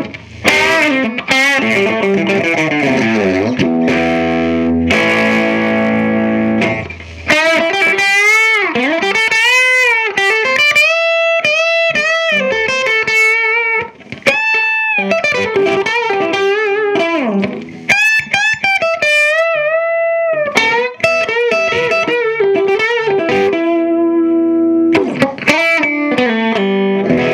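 Electric guitar on its bridge humbucker played through a 15-watt cathode-biased EL84 valve amp with a 12-inch speaker, with a meaty low end. Chords ring for the first seven seconds or so, then it moves to single-note lead lines with string bends and vibrato.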